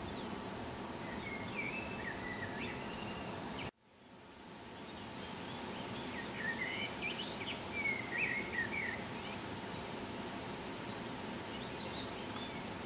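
Small songbirds singing short, chirping phrases over a steady outdoor background hiss. All sound cuts out abruptly a little under four seconds in, then fades back up, and the birds sing again more busily a few seconds later.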